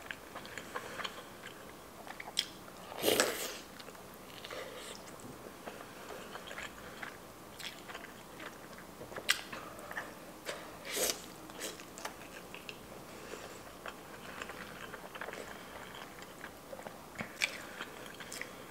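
Close-miked chewing of a soft mouthful of hamburger steak with fried egg and gravy, with scattered sharp wet mouth clicks; the loudest comes about three seconds in.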